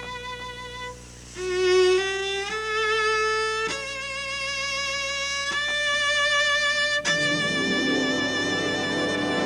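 Cello playing a slow solo line of long, sustained high notes with vibrato, stepping upward from note to note. About seven seconds in, a denser layer of lower notes comes in underneath.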